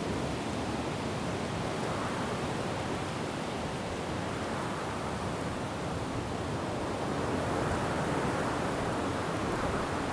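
Wind blowing through forest trees with rain falling, a steady rushing that swells in gusts, the stronger gust in the second half.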